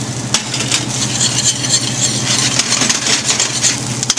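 Celery and onions sizzling in a stainless steel pot as a roux is stirred in, with clicks and scrapes of the stirring utensil, over a steady low hum.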